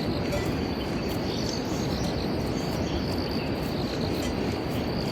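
Insects trilling in one steady, unbroken high-pitched tone, over a continuous low rushing noise.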